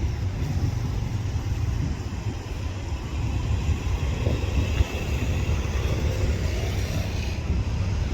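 KiHa 183 diesel railcar train running, a steady low rumble with wind buffeting the microphone.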